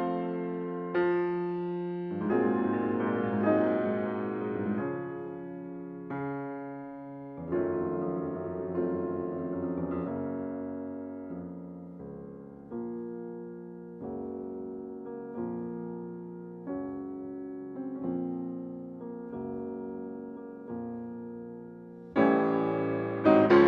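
Background piano music: slow, soft chords, each struck and left to fade, swelling into a fuller, louder passage near the end.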